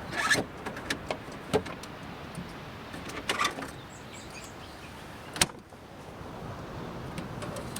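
A string of short knocks and clicks of gear being handled at a vehicle, with one sharp click about five and a half seconds in, over a steady hiss.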